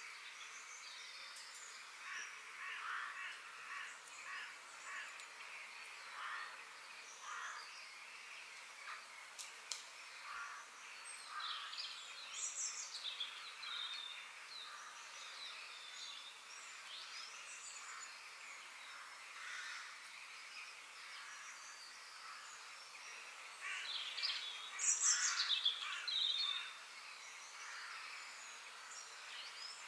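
Several forest birds singing and calling, short chirps and sweeping notes overlapping, over a steady background hiss. A louder burst of quick falling whistles comes near the end.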